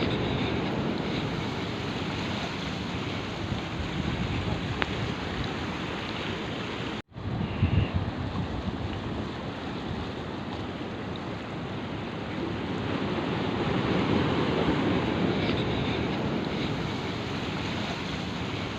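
Sea surf washing on the shore, with wind buffeting the microphone. The sound cuts out for an instant about seven seconds in, then comes back with a louder gust.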